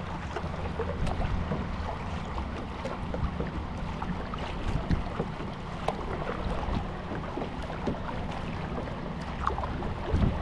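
Kayak out on the water: irregular small splashes and knocks from the paddling, over a steady low wind rumble on the microphone.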